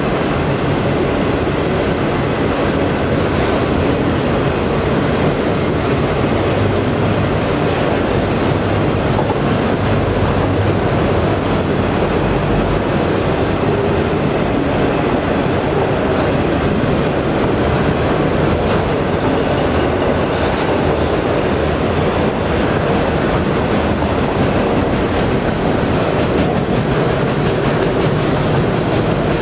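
Norfolk Southern autorack freight cars rolling past: a steady, loud noise of steel wheels running on the rails.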